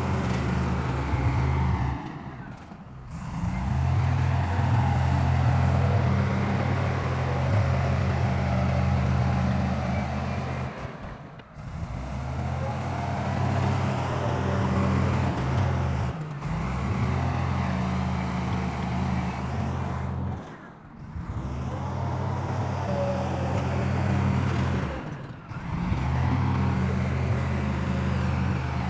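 Heavy diesel engine of earthmoving machinery running steadily. The sound drops away briefly four or five times.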